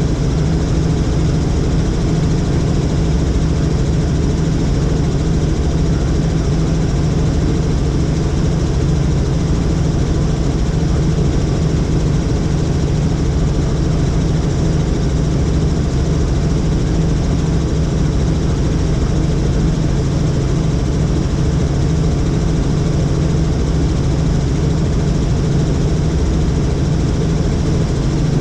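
A helicopter in flight, its engine and rotor making a loud, steady drone that does not change.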